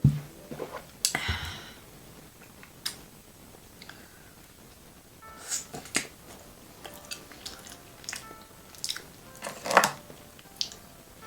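Close-up eating sounds of a seafood boil: wet chewing, lip smacks and sharp clicks, coming irregularly. The loudest are at the start, about a second in, and just before the end.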